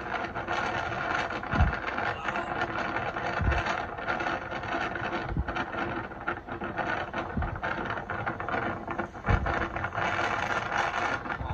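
Road and wind noise inside a moving car, with a low thump repeating about every two seconds.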